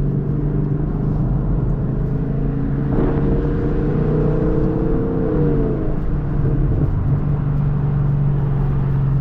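2023 Chevrolet Camaro SS's 6.2-litre V8 running through an exhaust with the muffler and secondary catalytic converters deleted. It runs steadily, rises in pitch about three seconds in, holds for a couple of seconds, then drops back to its earlier steady note.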